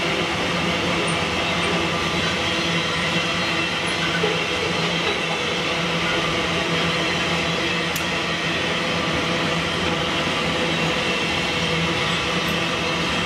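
MRS freight train's open-top steel wagons rolling past close by, a steady rumble and rattle of steel wheels on rail.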